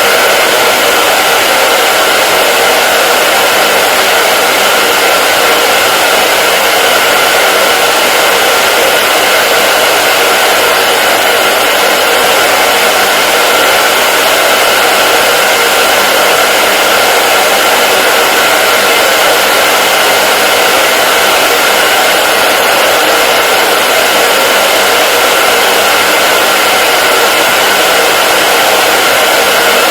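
Hair dryer running continuously at a steady speed: an even, unchanging whoosh of blown air with a faint steady motor hum.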